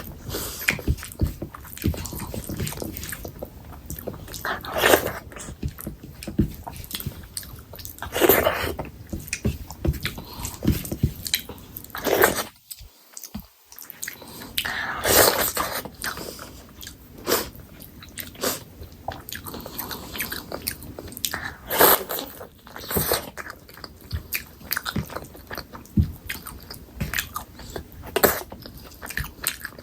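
Close-miked chewing and wet mouth sounds of a person eating chicken curry: a steady run of small clicks and smacks, with louder chews every few seconds. The sound drops out briefly about 13 seconds in.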